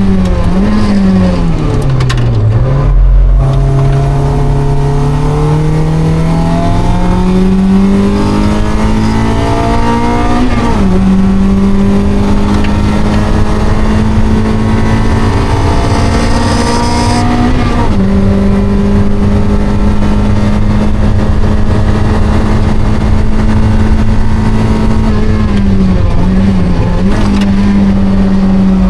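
Mazda NB Roadster's 1.8-litre four-cylinder engine under hard driving on track. Revs fall under braking at the start, then climb through the gears with two upshifts, about 11 s and 18 s in, before holding steady at high revs with a brief lift near the end.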